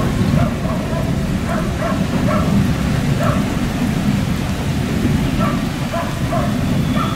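Freight train's wagons rolling away on the rails: a steady low rumble of wheels on track, with short higher-pitched squeaks now and then.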